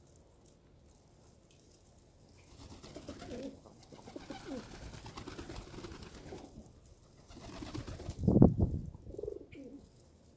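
Birds calling with low-pitched calls through the middle, and one louder sound about eight seconds in.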